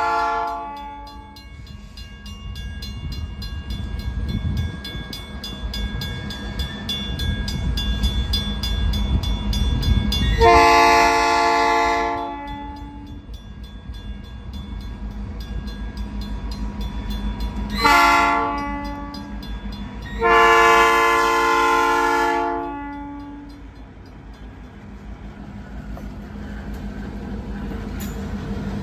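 Diesel freight locomotive horn sounding the grade-crossing signal over the deep rumble of the passing locomotive. One blast ends about a second in, then a long blast comes about ten seconds in, a short one near eighteen seconds and a final long one about twenty seconds in.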